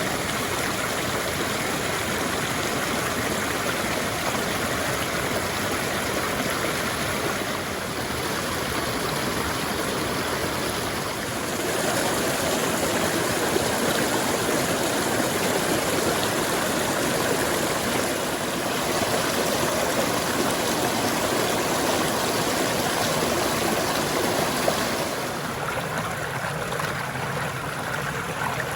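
A forest stream flowing steadily over rocks. The rush grows louder a little under halfway through and drops quieter and duller near the end.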